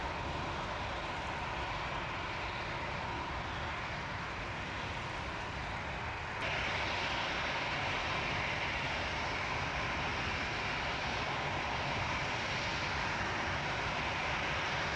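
Airliner engines running steadily, heard from beside the runway. The sound gets abruptly louder and brighter about six seconds in.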